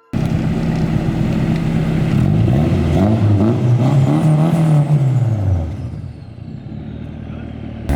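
Car engine revving: the pitch climbs and falls back over about three seconds in the middle, then the engine settles quieter.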